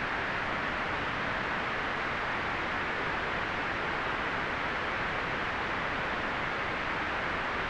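Steady white noise: an even, unbroken hiss, fullest in the upper-middle range and thinning in the highest treble, with no changes in level.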